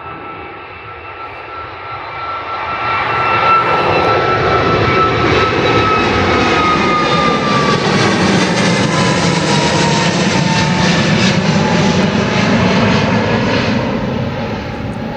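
An easyJet Airbus A321neo's CFM LEAP-1A turbofans at full takeoff thrust, swelling as the jet rolls and lifts past, then running loud and steady. A high fan whine drops in pitch midway as the aircraft goes by.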